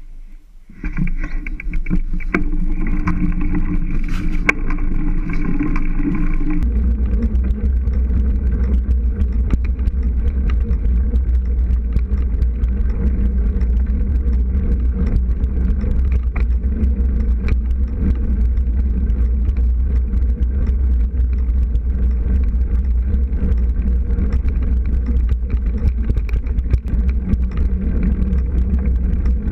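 Steady, loud riding noise from a bicycle moving over sand and gravel: tyres rumbling on the loose surface, with wind on the microphone. It starts about a second in and gets deeper about six seconds later.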